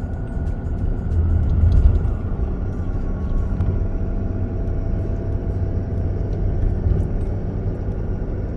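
Steady low engine and road rumble of a moving vehicle, heard from inside the cab.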